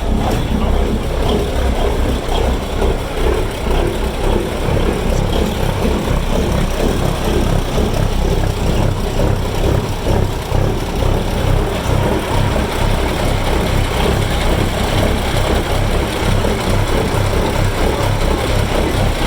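Several Cummins KTA-19 1150-cubic-inch inline-six diesel engines idling together, with the uneven lope these engines are known for at idle.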